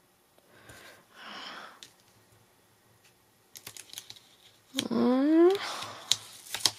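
Light clicks and taps of paper and card being handled on a craft table, with a soft rustle about a second in. Near the middle a short wordless vocal sound from the crafter, rising in pitch, is the loudest moment.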